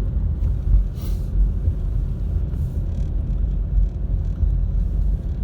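Car climbing a hill, heard from inside the cabin: a steady low engine and road rumble, with a couple of brief hisses, about a second in and again before the middle.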